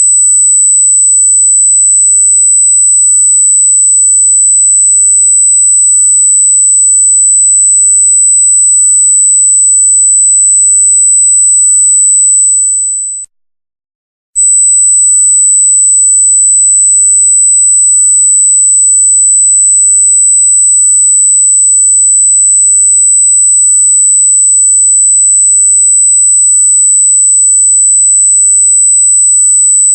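A single loud, steady high-pitched electronic tone near 8 kHz, a pure sine wave, cutting out for about a second midway and then resuming unchanged.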